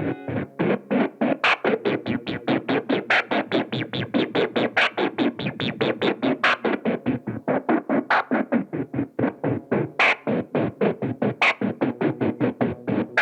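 Boss SY-1 guitar synthesizer pedal on a sequencer patch, played from a guitar: a rapid, evenly pulsing run of short staccato synth notes with a brighter accented note recurring about every one and a half seconds.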